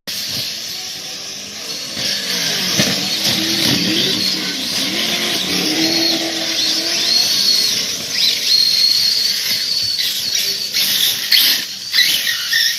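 Radio-controlled short course trucks racing: the whine of their motors rises and falls in pitch as they speed up and slow down, over a steady hiss of tyres on the track, with a few short knocks near the end.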